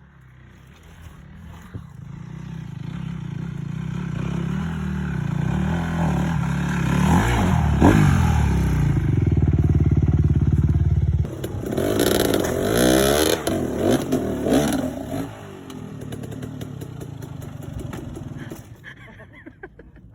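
Dirt bike engine running, growing steadily louder over the first several seconds. It is uneven revving with clattering from about twelve to fifteen seconds in, then quieter to the end.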